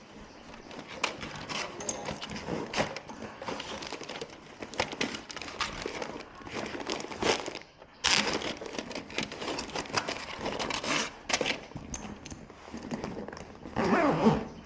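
Irregular rustling, crinkling and light clicks of things being handled close by, with a short wavering call just before the end.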